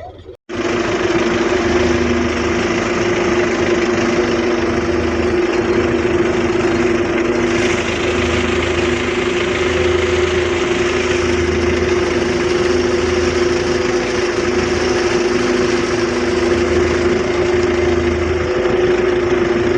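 Belarus 510 tractor's diesel engine running steadily at constant speed with a strong, even hum. The sound cuts in abruptly about half a second in.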